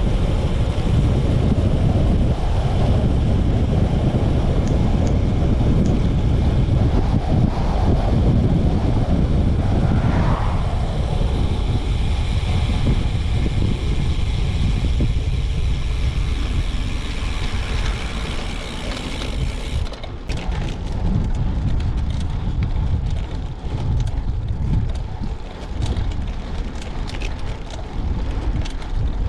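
Wind buffeting the microphone over a low rumble of a moving vehicle. About twenty seconds in the high hiss drops away and the noise turns a little quieter and more uneven.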